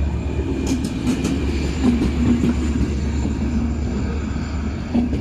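Passenger coaches of an arriving train rolling past as it slows down: a steady low rumble, with a few sharp wheel clicks over rail joints about a second in.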